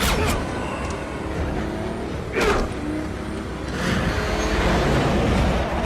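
Film soundtrack of cars and a truck driving at speed: a dense, steady rush of engine and road noise. A short higher-pitched sound cuts through about two and a half seconds in, and the noise swells louder near the middle.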